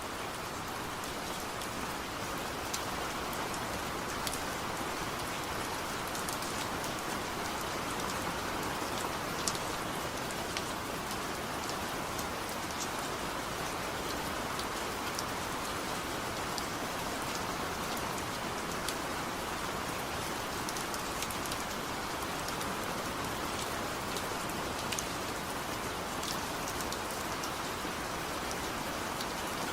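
Steady, gentle rain with no thunder, a constant hiss of falling rain with scattered sharper drop ticks.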